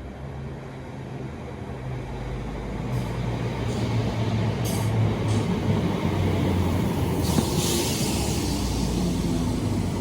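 Class 319 electric multiple unit pulling into the platform, its low motor hum growing louder over the first few seconds and then holding steady. Short hisses of air come a few seconds in, with a longer hiss near the end from the brakes.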